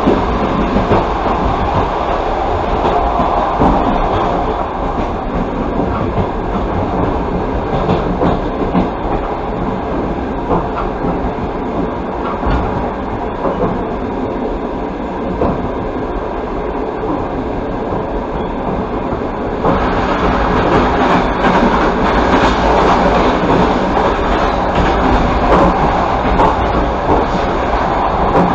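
Passenger train running, heard from a carriage window: steady wheel-on-rail rumble with some clickety-clack over the track. About two-thirds of the way in, the noise suddenly gets louder and brighter.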